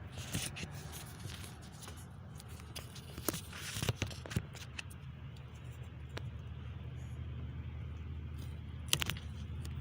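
Sandpaper being rubbed by hand on a metal engine part: irregular short scrapes with a few sharp clicks, loudest between about 3 and 4.5 seconds and again near the end, over a steady low hum.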